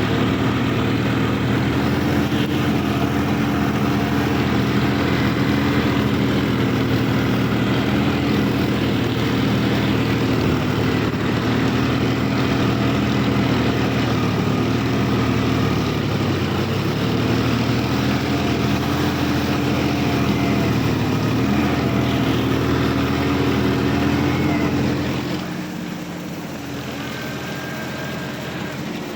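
Sonalika DI 50 RX tractor's diesel engine running steadily, its pitch sagging briefly twice, then turning quieter about 25 seconds in.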